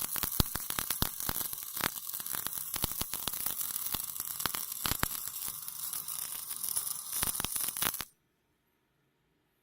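CO2 MIG welding arc from a MIG350A semi-automatic welder: a steady crackling hiss with dense, irregular sharp pops, which stops suddenly about eight seconds in.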